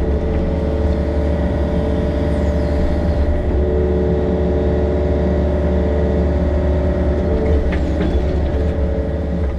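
Yanmar excavator's diesel engine running steadily under working load, with a steady whine over it and a brief knock about eight seconds in.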